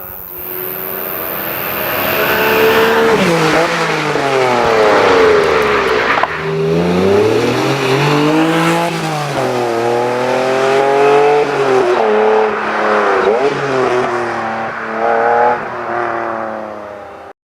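Lexus LFA's V10 engine revving hard under acceleration, its pitch climbing over a few seconds and dropping sharply at each gear change, then several short revs near the end.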